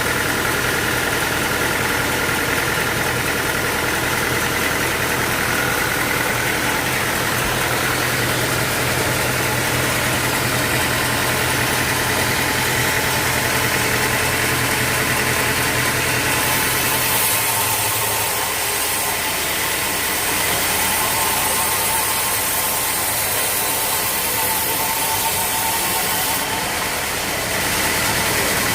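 Sawmill machinery running steadily with an engine-like hum. About two-thirds of the way through the low hum drops away, and a high hiss is stronger for several seconds.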